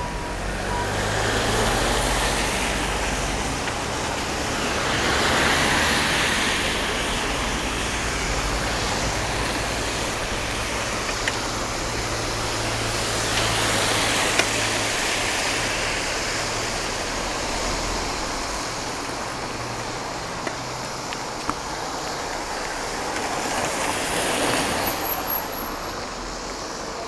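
Cars passing on a wet road: tyre hiss swells and fades several times over a low engine hum.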